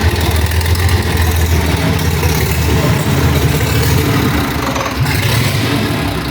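Freshly overhauled Ikarus bus diesel engine running steadily at idle after its first start-up.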